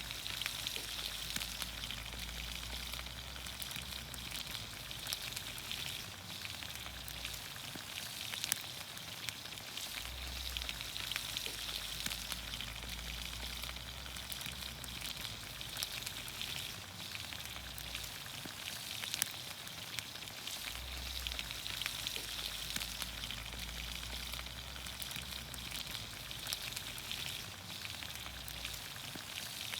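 Vegetables frying in olive oil over a campfire: a steady sizzle dotted with many small pops.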